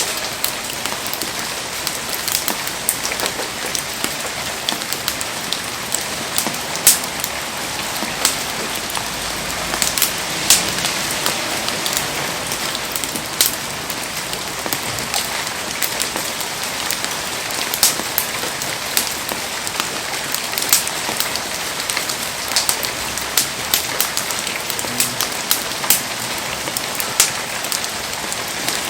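Heavy rain falling steadily, with frequent sharp pops and ticks scattered irregularly through it.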